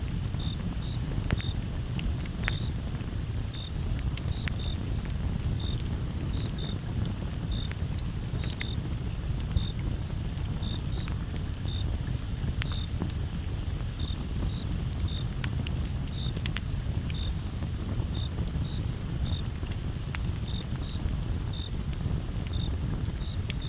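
Wood campfire crackling with many sharp, irregular pops and snaps over a steady low rumble of the burning fire. Behind it, crickets chirp in short repeated pulses, roughly one or two a second, over a continuous high insect trill.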